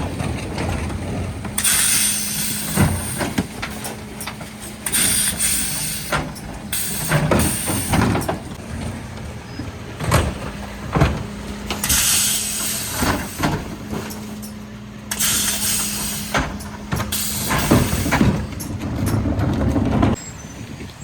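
Mercedes Econic refuse truck's Zoeller bin lifter and compaction body working through bin collections. A steady hydraulic hum runs under four hissing bursts, with scattered knocks and clatter as wheelie bins are lifted and tipped.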